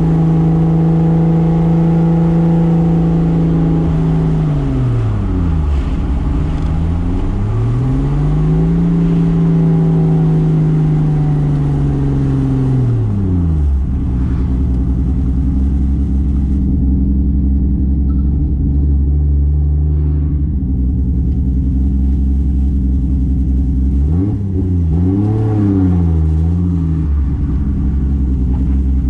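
Toyota Soarer's single-turbo 2JZ straight-six held at high revs, then the revs fall away, climb once more and drop to a low steady idle about halfway through, as the road and wind noise dies away. Near the end a few quick throttle blips.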